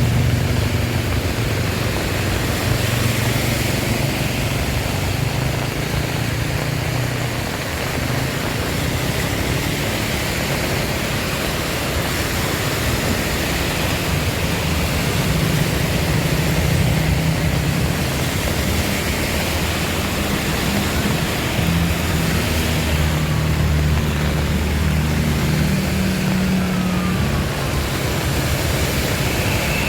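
Heavy rain making a steady hiss, with the low hum of motorcycle and car engines moving slowly through flood water on the road.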